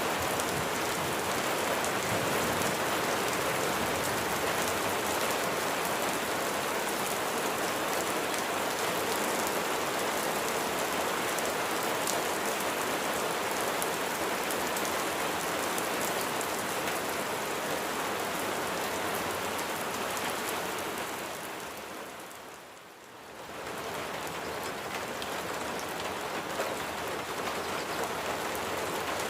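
Steady heavy rain falling: a dense, even hiss of drops on surfaces. About three-quarters of the way through it fades down smoothly, then swells back up within a second or two.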